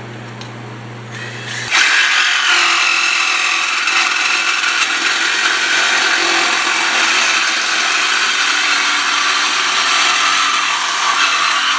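Reciprocating saw (Sawzall) cutting through a steel exhaust pipe: a loud, steady rasping cut that starts about two seconds in and keeps going.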